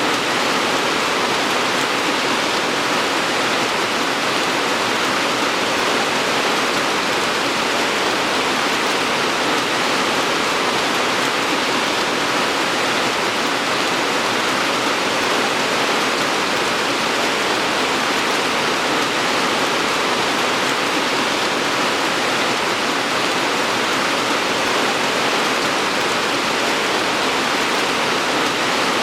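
Steady, even rain, a continuous dense hiss with no single drops or other events standing out.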